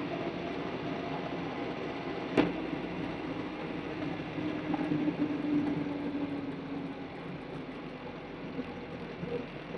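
Steady vehicle engine and running noise with a low hum, broken by one sharp click about two and a half seconds in.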